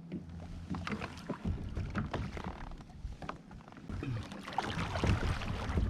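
Scattered small knocks and taps on a fishing kayak as gear is handled aboard, with water lapping at the hull. A low hum fades out in the first second and a half, and a rushing haze, like wind on the microphone, builds over the last two seconds.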